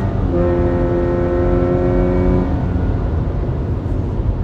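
2024 Subaru Forester Wilderness's flat-four engine and aftermarket Nameless exhaust easing off as the throttle lifts at the end of a quarter-mile acceleration run: the engine note drops at once, fades out about two and a half seconds in, and leaves a steady low road rumble.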